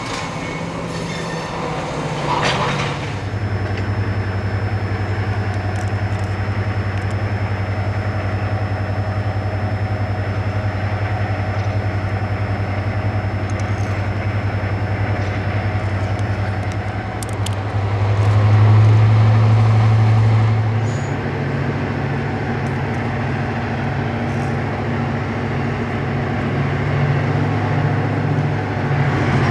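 A diesel train's engine running with a steady low drone. It grows louder for a couple of seconds about two-thirds of the way through, then settles at a slightly higher note.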